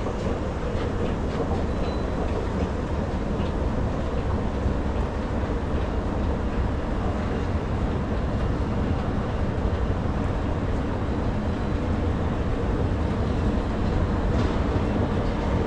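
A train running on rails: a steady low rumble with a few faint clicks.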